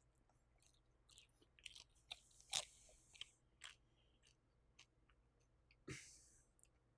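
Close-up chewing of air-fried veggie gyoza: irregular crisp crunches and mouth sounds, with the loudest crunch about two and a half seconds in and another strong one near the end.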